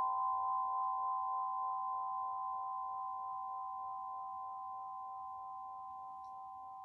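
Several struck tones, close together in pitch, ringing on together and slowly fading.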